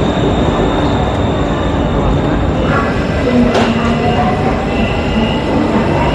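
Electric metro train running past the platform screen doors: a steady rumble with a thin high tone and a whine that rises in pitch in the second half, with a sharp clack about three and a half seconds in.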